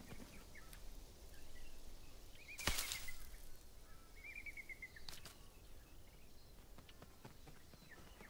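Quiet woodland ambience with faint bird chirps, two short trills about two and a half and four seconds in, and a brief burst of noise just under three seconds in, the loudest moment.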